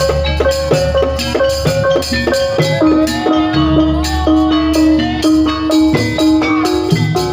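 Jaranan pegon gamelan music: struck metal keyed instruments play quick notes over drums and a heavy bass, with a long held note starting about three seconds in and a wavering melody above it.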